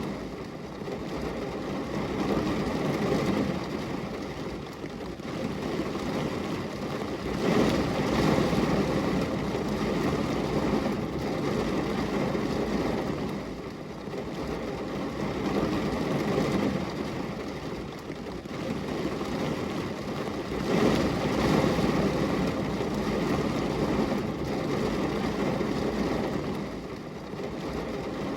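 Steady rain on a glass window: a continuous hiss with a heavy low rumble that swells and eases every few seconds.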